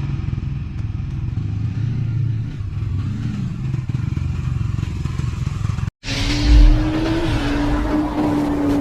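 A motor vehicle engine running with a dense low rumble. It cuts off about six seconds in to another stretch of engine sound with wind noise, a steady pitch that drops near the end and a thump just after the cut.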